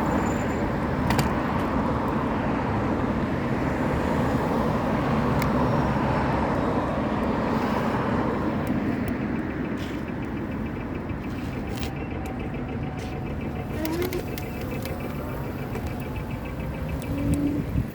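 Road traffic noise heard from a bicycle, a steady rush of passing vehicles that is louder for the first eight seconds and then eases off. Two short squeals come near the end.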